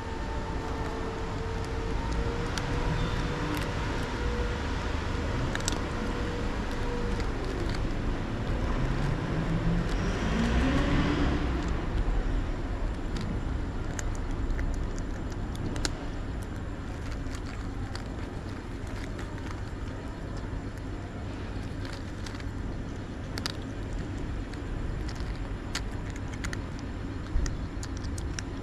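Street traffic, a steady low rumble, with one motor vehicle passing about ten seconds in, its engine pitch rising. Scattered sharp clicks are heard throughout.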